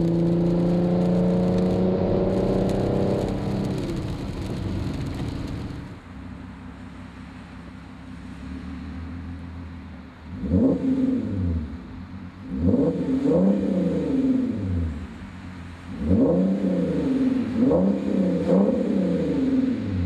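Porsche Cayenne V6 with a Supercup-style exhaust (muffler bypass pipes, small resonators) and secondary cat-bypass pipes: engine running steadily at first, settling to idle, then a series of quick throttle blips, each rev rising sharply and falling back, in groups of two or three.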